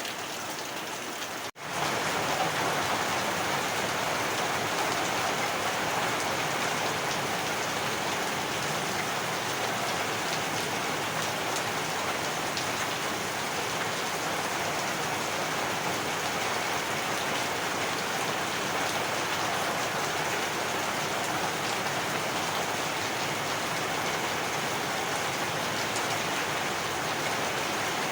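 Heavy rain falling steadily, a dense even hiss of drops. It cuts out for an instant about a second and a half in, then carries on slightly louder.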